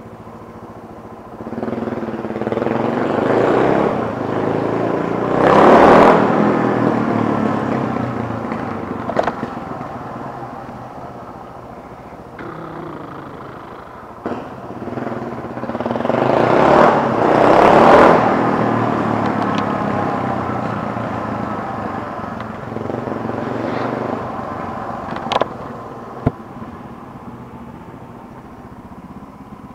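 Beta M4 supermoto's Suzuki DR350-derived single-cylinder four-stroke engine running through a GPR Speedcone exhaust with the dB killer fitted, heard from the rider's seat while riding. The revs climb twice, peaking about six and eighteen seconds in, and each time fall back slowly, with a few sharp clicks in between.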